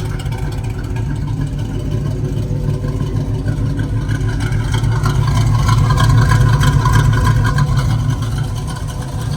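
Classic Pontiac Grand Prix's cammed V8 idling with a choppy, loping cam idle, swelling slightly in loudness about halfway through.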